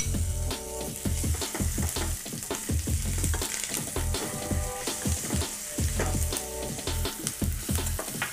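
Ginger-garlic paste sizzling in hot oil with frying onions and curry leaves in a non-stick pan as it is stirred. A music bed with a steady beat plays under it.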